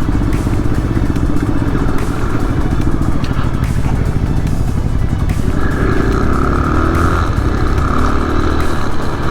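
Adventure motorcycle engine running close by; in the second half its pitch rises and falls in repeated sweeps, as it is revved.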